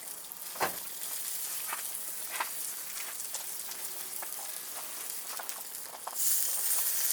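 Suffolk lamb skewers sizzling over a wood fire: a steady hiss with scattered sharp pops and crackles, the hiss growing louder about six seconds in.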